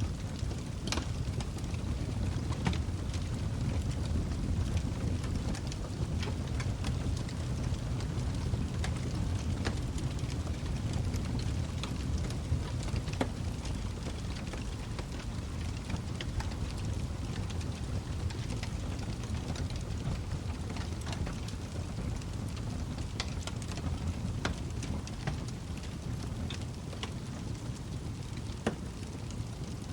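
Log fire burning in a fireplace: a steady low rumble of flames with irregular sharp crackles and pops from the burning wood.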